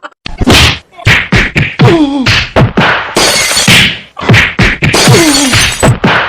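Loud laughing sound effect: a run of sharp laugh bursts, many sliding down in pitch, with breathy stretches between them.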